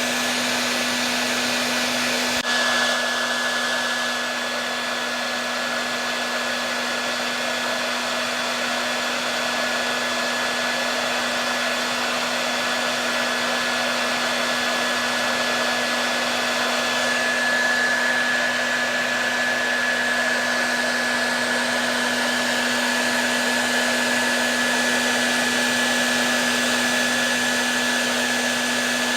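Hair dryer running continuously: a steady rush of air with a constant low hum and a high whine, the whine growing a little stronger about halfway through.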